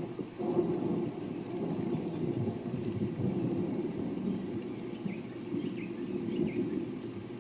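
A low rolling rumble of distant thunder swells about half a second in and carries on, over the steady hiss of falling rain. A few faint bird chirps come near the end.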